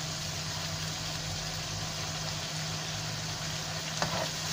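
Blended chili paste frying in oil in a wok, sizzling steadily as it cooks down and is stirred with a spatula, over a steady low hum. A sharp spatula knock on the pan about four seconds in.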